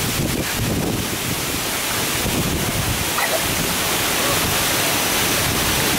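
Large waterfall plunging into its pool, a steady, even rush of falling water.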